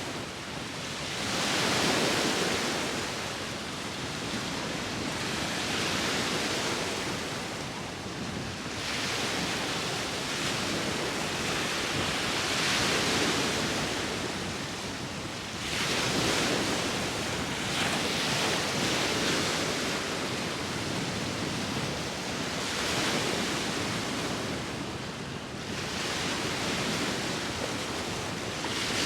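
Sea waves breaking and washing ashore, the rush swelling and easing every few seconds, with wind blowing.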